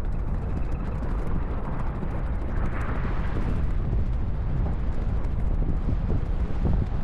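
Wind buffeting the microphone of an inline skater moving at high speed: a steady, low rushing rumble.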